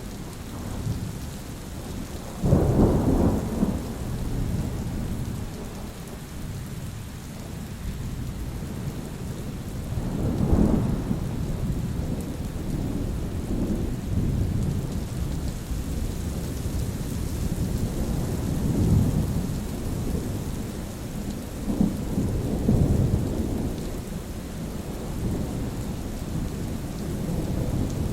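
Steady rain with rolling thunder: a loud, sudden rumble about two seconds in, then several weaker rumbles swelling and fading through the rest.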